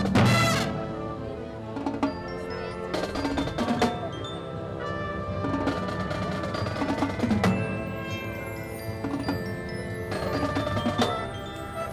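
High school marching band playing a quiet passage led by mallet percussion: bell-like glockenspiel, chime and marimba notes ringing over soft sustained tones. It follows a loud full-band hit right at the start.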